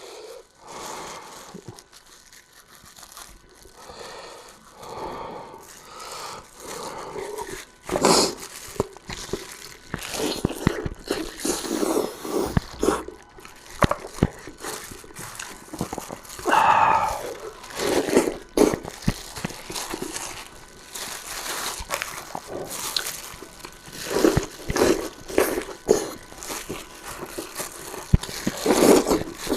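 Close-up eating sounds: irregular chewing and slurping of soft, well-stewed food.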